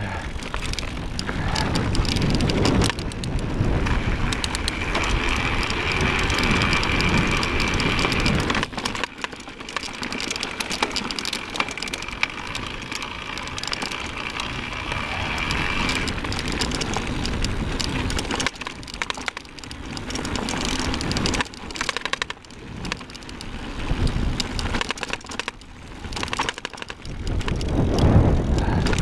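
Electric mountain bike riding along a dirt trail: knobby tyres crunching and rattling over dirt and gravel, with wind buffeting the microphone in gusts. A steady high whine runs from about four seconds in until past the middle.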